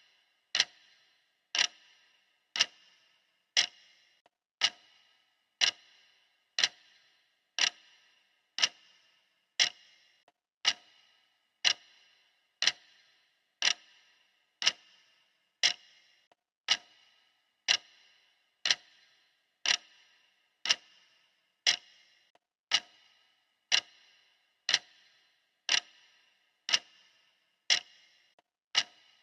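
Clock ticking steadily, one sharp tick about every second, as a countdown timer's ticking sound.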